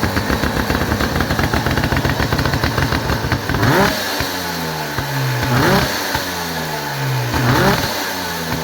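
1953 Motobi two-stroke twin motorcycle engine running at a fast, even idle, then revved three times, about two seconds apart, the pitch rising sharply and falling back after each blip.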